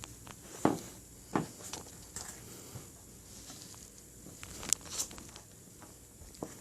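Scattered light clicks and knocks of handling, a few at a time, with a quiet room behind them; no motor is running yet.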